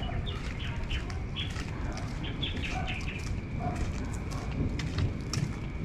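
Small birds chirping in quick, short, repeated calls over a steady low background rumble, with scattered light ticks.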